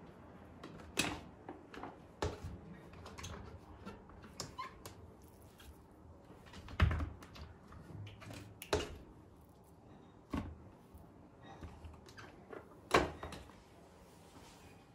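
Kitchen items being handled: irregular light knocks and clicks as containers, lids and produce are picked up and set down, with two sharper knocks about seven and thirteen seconds in.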